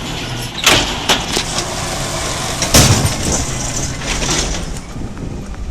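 Garbage truck engine running steadily, with sharp clanking crashes over it, the loudest a little before the middle.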